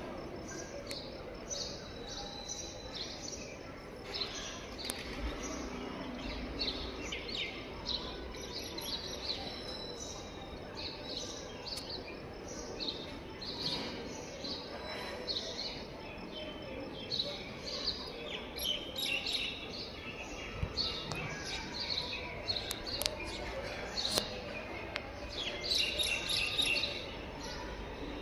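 Small birds chirping in many quick, short, high notes, growing denser in the last few seconds, over a steady outdoor background hiss.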